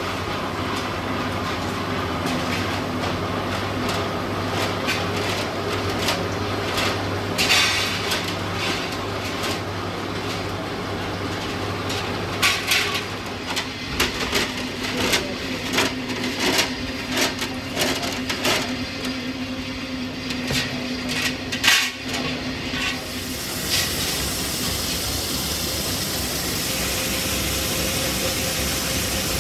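Machinery running with a steady hum, broken by a series of short clanks and knocks, then giving way to a steady hiss near the end.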